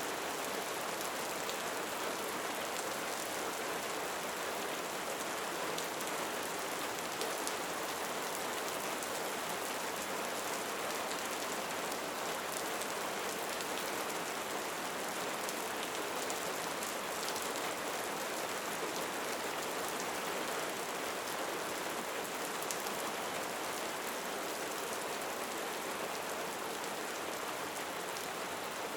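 Steady rain falling: an even hiss with a fine patter of drops that stays unchanged throughout.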